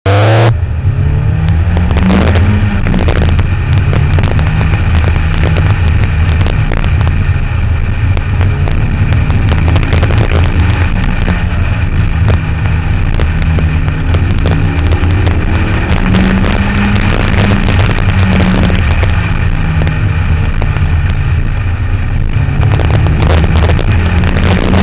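Engine of an open-top sports car running under load on a winding road, its note rising and falling as the revs change, over loud wind and road noise.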